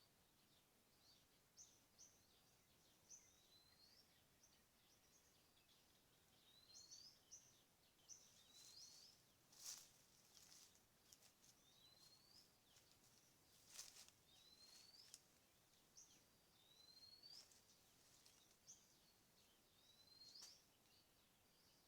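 A bird repeating a short call that rises in pitch, about once every one to two seconds. Two sharp clicks stand out, a little under halfway through and again about four seconds later.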